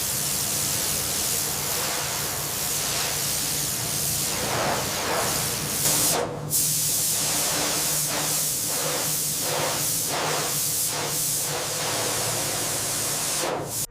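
A steady hiss, dropping out briefly about six seconds in, with a run of regular surges in the second half.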